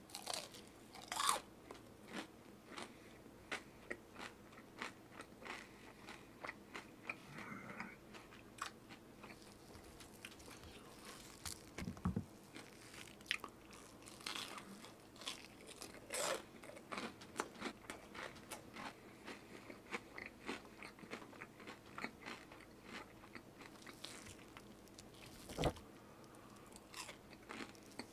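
Close-miked biting and chewing of crunchy fried or snack food: a long run of crisp crunches and chewing, with a sharp loud bite about a second in and another near the end.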